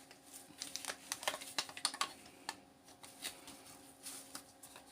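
Irregular small clicks and snaps of metal and plastic as a power-adapter transformer is broken apart by hand, its iron core being stripped away from the copper winding. The clicks come thick in the first two seconds and grow sparser after.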